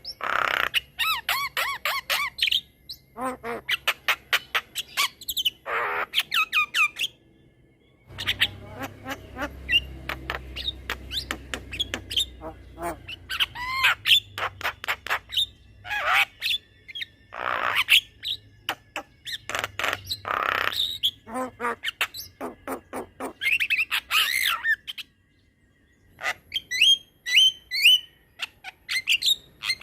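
Javan myna singing in long runs of rapid, sharp chattering notes mixed with harsh squawks. The song breaks off briefly about a quarter of the way in and again near the end.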